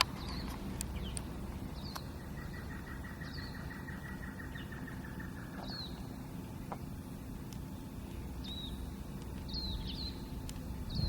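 Outdoor ambience: small birds give short, high chirps every second or so over a steady low rumble. For a few seconds near the start, a fast pulsing trill sounds, then stops.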